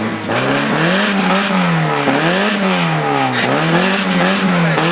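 Racing car engine at full throttle, its revs climbing and dropping several times in quick succession as the car accelerates, shifts and lifts through a corner.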